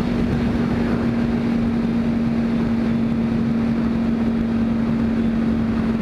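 Yamaha R1 sportbike's inline-four engine running at a steady pitch while riding at road speed, under heavy wind rush on the microphone.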